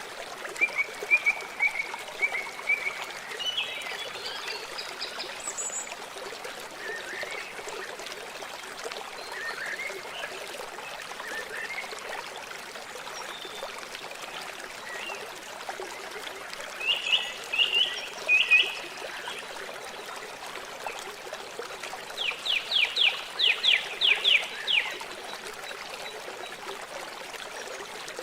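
River water flowing steadily. Birds call over it at times, loudest in a fast series of chirps about four-fifths of the way through.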